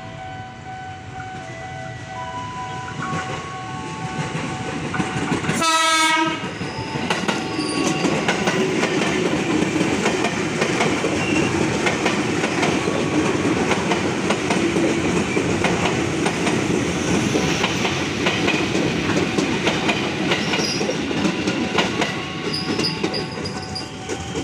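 A JR 205 series KRL electric commuter train approaches and passes close by. It gives one short horn blast about six seconds in, then wheels and carriages rumble and clatter past for the rest of the time.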